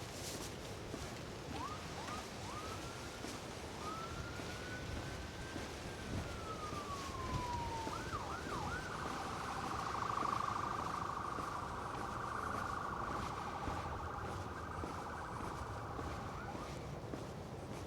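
An emergency vehicle's electronic siren: a few short rising whoops, one slow wail that climbs and then falls, more whoops, then a fast yelp of about eight seconds that stops just before the end.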